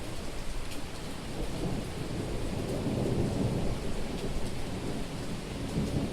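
Heavy rain falling steadily on a street, with a low rolling thunder rumble that builds about a second and a half in, peaks around halfway and swells again near the end.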